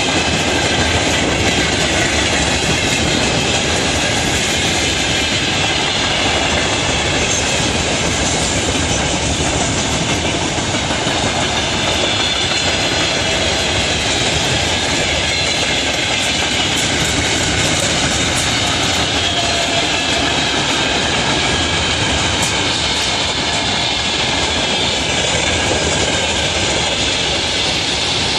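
A train hauled by a 2TE116 diesel locomotive rolling past, a loud, steady rail noise of wheels on track that holds even throughout.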